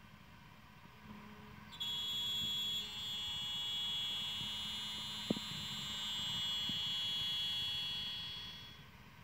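Spindle of a CNC aluminium lock-milling machine running with a high, steady whine that starts abruptly about two seconds in and fades out near the end, with a single click about halfway.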